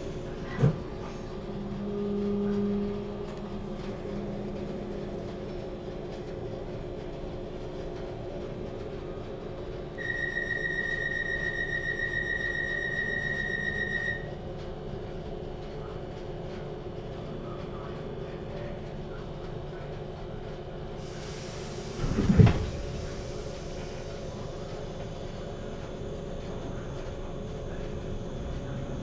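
Class 455 electric multiple unit standing at a platform with a steady electrical hum. A high beeping alarm sounds for about four seconds about a third of the way in, and a single loud thud comes about three-quarters of the way through.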